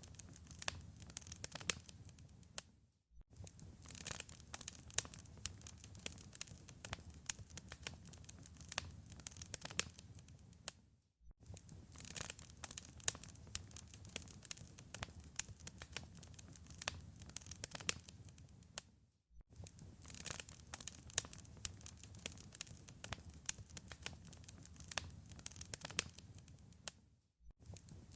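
Wood fire crackling in a fireplace: a dense run of sharp pops and snaps over a soft low rush. The sound cuts out briefly about every eight seconds.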